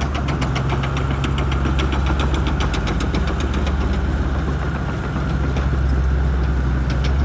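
Shantui bulldozer's diesel engine running steadily, with a rhythmic clicking about four times a second through the first few seconds that returns near the end.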